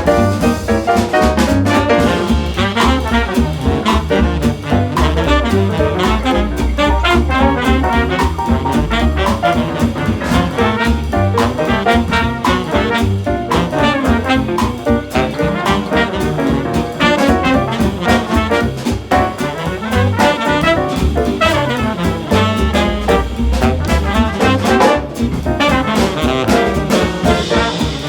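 Up-tempo instrumental swing jazz with a brass section of trombones and trumpets playing over a fast, steady beat.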